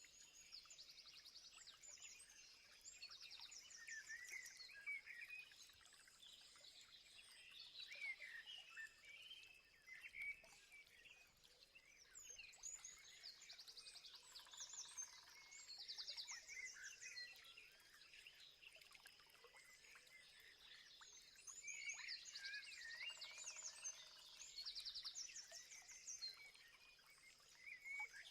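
A chorus of several wild birds calling over one another, faint: short chirps, whistled slurs and rapid trills, over a steady high thin tone. Twice a lower buzzing call joins in.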